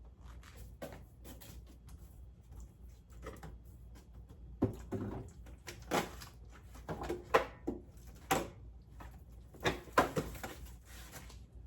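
Kitchen handling sounds: irregular knocks and clicks of items being picked up, set down and handled on a counter, mostly from about four and a half seconds in.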